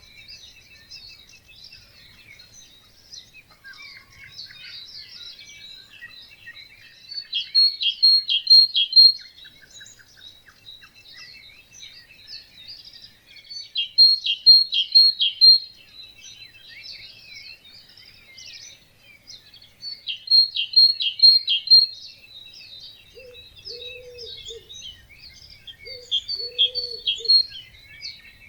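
Dawn chorus of many songbirds singing together. One nearby bird repeats a loud phrase of quick, evenly spaced high notes about every six seconds, and a much lower call sounds twice near the end.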